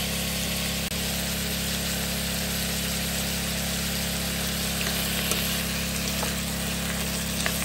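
Rabbit meat sizzling steadily in an electric skillet over a steady low mechanical hum. Near the end a spatula starts clicking and scraping against the pan.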